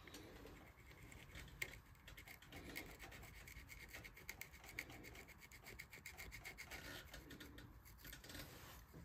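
Faint scraping and rasping of a hand tool on wood, in many short strokes in quick succession.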